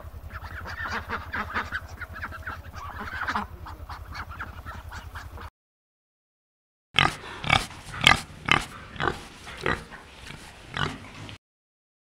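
Ducks calling for about five seconds. Then, after a short silence, a warthog gives a run of short, loud grunts, about nine in four seconds.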